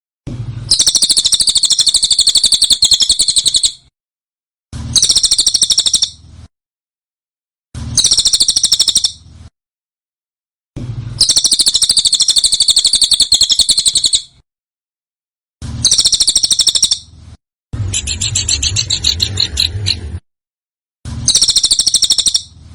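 Small songbird singing in a bird-tutoring (masteran) recording: rapid, harsh, high trills delivered as about seven separate bursts of one to three and a half seconds each, with dead silence between them.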